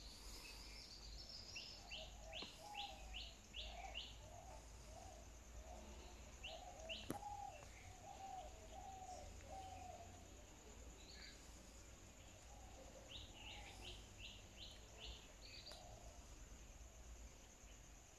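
Birds calling outdoors, faintly: runs of five or six quick high chirps in a row, once near the start and again late on, over a lower warbling call through the first half. A faint steady low rumble underlies it, with a single sharp click about seven seconds in.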